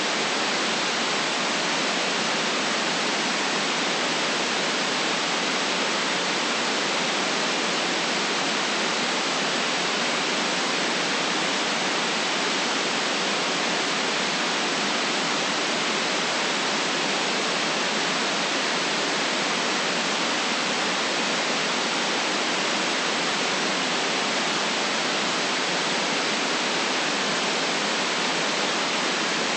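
Steady white noise: an even, unchanging hiss with the deepest bass and the highest treble cut off.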